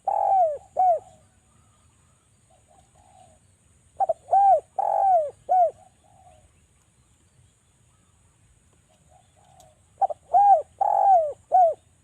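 Derkuku dove cooing: tight phrases of about four arched coos, each rising and falling in pitch, repeated roughly every six seconds, with a softer low note a little before each phrase.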